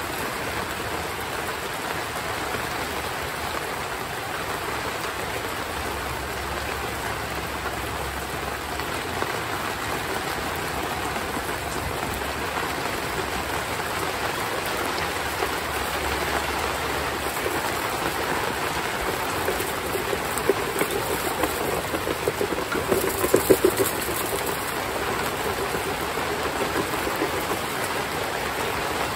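Heavy rain falling steadily, an even hiss of rain on surfaces. About three-quarters of the way in there is a short, louder spell of quick taps.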